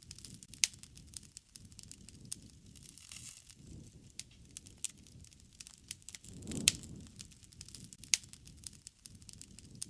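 Wood fire crackling, with irregular sharp pops over a soft low rush of flame that swells about six and a half seconds in, where the loudest pop comes.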